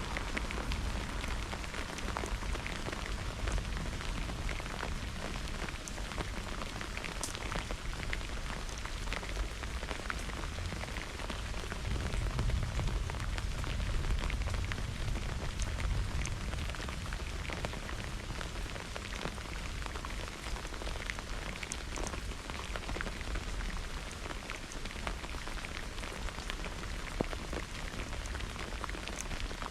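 Steady rain falling in a thunderstorm, with scattered sharp ticks of drops striking close by.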